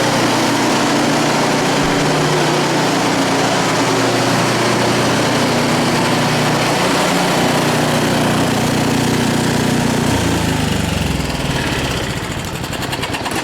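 Ariens snowblower's small four-stroke engine running steadily at full throttle, being run to winterize it before its oil is changed. About ten seconds in it slows, dropping in pitch, and the sound fades near the end as it winds down.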